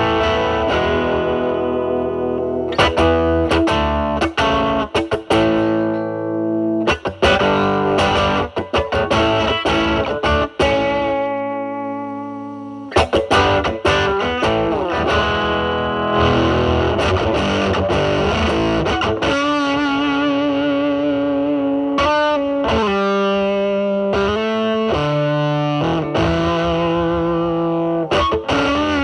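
Electric guitar through a silicon-transistor Mosrite Fuzzrite clone pedal with the fuzz at 4, into a Marshall Valvestate amp's drive channel. It plays choppy strummed chords and short licks, then held single notes with wide vibrato.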